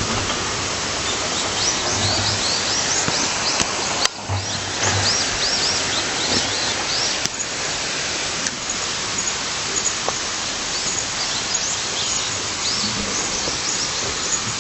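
Steady rush of a flowing stream, with many short bird chirps repeating above it.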